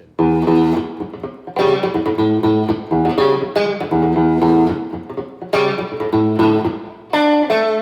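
2012 Fender Stratocaster on its middle pickup, played clean through a 5F4 tweed amplifier with a little reverb and compression. About seven chords are struck, each left to ring before the next.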